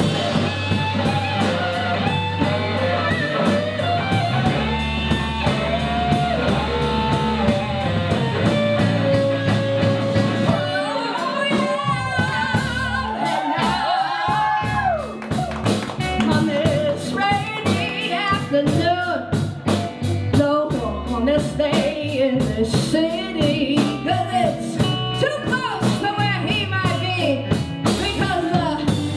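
Live rock band playing: electric guitars, bass guitar and drum kit under lead vocals. The bass drops out briefly about eleven seconds in, then the full band comes back in.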